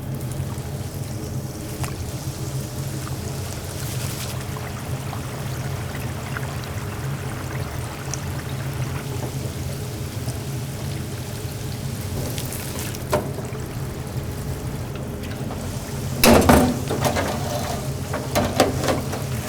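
Hot oil bubbling and sizzling in a deep fryer over a steady low hum, with a louder clatter about sixteen seconds in.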